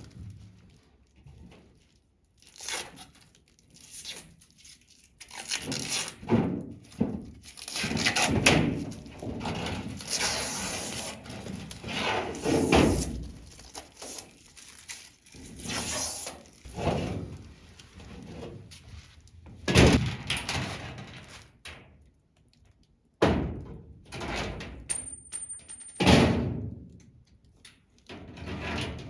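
Protective plastic film being peeled off a large plastic race-car body sheet, crackling in uneven bursts, with knocks and flexing thumps as the sheet is handled.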